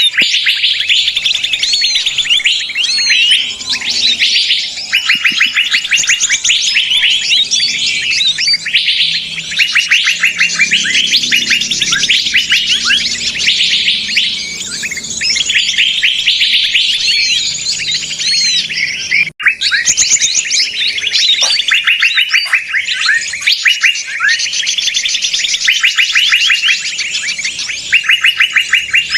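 Bird-trapping lure recording of small songbirds calling in agitation: a dense, loud chorus of rapid chirps and trills that overlap continuously, with a momentary dropout about two-thirds of the way through.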